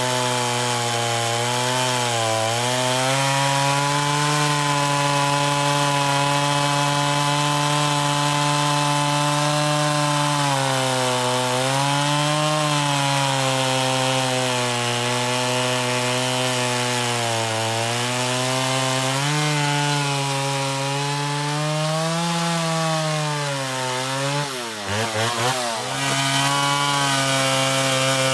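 Stihl Contra Lightning two-stroke chainsaw, enlarged to 137 cc, running at high revs. Its pitch sags and recovers several times, and wavers unsteadily about three-quarters of the way through.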